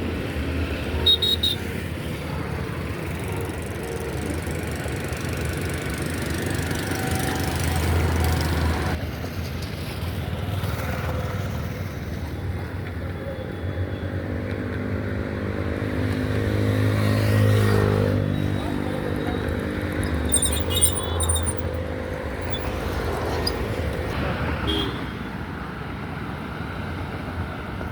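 Road traffic noise, with a motor vehicle's engine passing close about halfway through, its pitch rising and then falling away.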